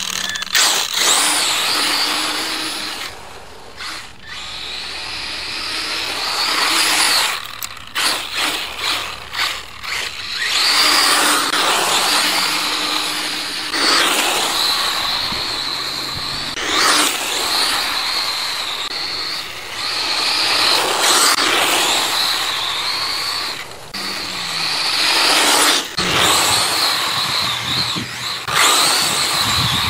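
Brushless-powered 1/10 RC rally car (Kyosho DRX VE with a Castle Creations Mamba Max Pro system) being driven hard. The motor and drivetrain whine high, rising and falling in repeated bursts of full throttle, over the hiss of the tyres on the surface.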